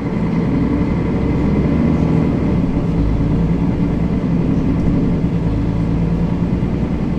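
Mercedes-Benz Citaro facelift city bus driving, its diesel engine running steadily under load with a deep rumble.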